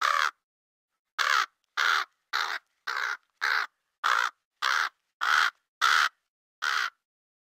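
A crow cawing: one caw, then after a short pause a steady run of ten harsh caws about 0.6 s apart, with clean silence between them.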